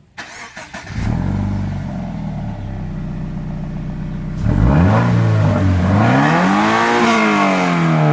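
Subaru BRZ's flat-four engine heard through its exhaust, idling steadily, then revved: two short blips about 4.5 and 5.5 seconds in, then a longer rev that climbs and falls away near the end.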